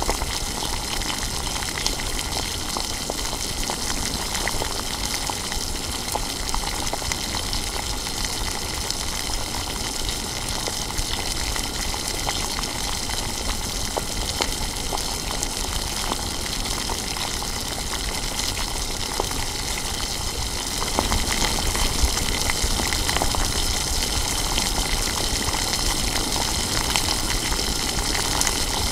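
Tomatoes, onions and spice paste sizzling and bubbling in hot oil in an aluminium pot: a steady, even sizzle scattered with small pops. It gets a little louder about 21 seconds in.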